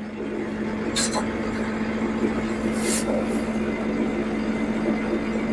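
Small tractor's engine running steadily under throttle as the tractor backs up, with a couple of brief high hisses about one and three seconds in.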